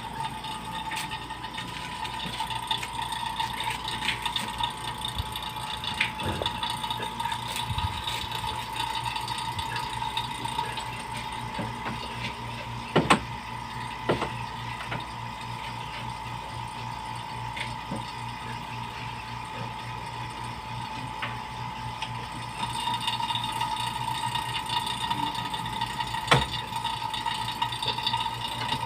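A small motor runs steadily with a constant high whine and a low hum. Two sharp clicks stand out, one about halfway through and one near the end.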